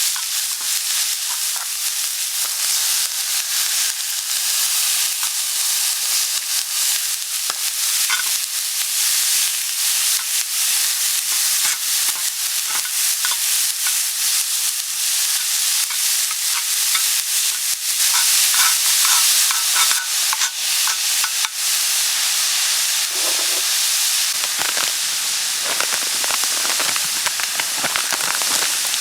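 Monjayaki sizzling steadily on a hot iron griddle, with frequent light clicks and scrapes of stirring on the plate.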